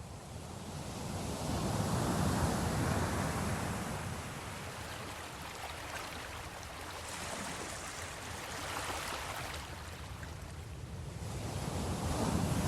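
Ocean waves breaking and washing in. The rush swells to a peak about two seconds in, eases off, then builds again near the end.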